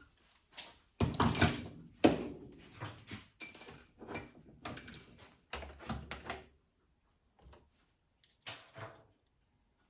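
Clicks, knocks and clatter of coffee machine parts being handled during a teardown, the loudest knocks about one and two seconds in, with a light metallic jingle in the middle and one last clatter near the end.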